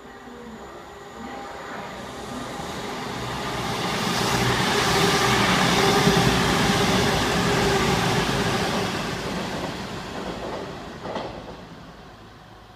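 Diesel passenger train running through the station at speed without stopping. Engine and wheel noise swell to a peak about halfway through as the coaches pass, with a steady engine tone, then fade as the train moves away.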